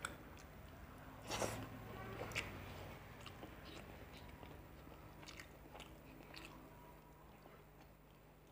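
Close-up mouth sounds of eating fish curry and rice by hand: chewing, with a few wet mouth clicks and the soft squish of curried rice and fish being picked apart by fingers. The louder clicks come about a second and a half and two and a half seconds in, then fainter ones. A faint steady low hum runs underneath.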